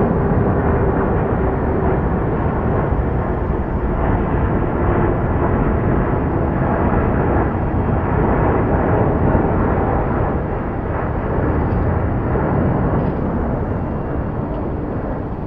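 Boeing 787 Dreamliner's GE GEnx turbofans at takeoff thrust: a loud, steady jet roar, with a faint tone sinking slowly in pitch over the first few seconds.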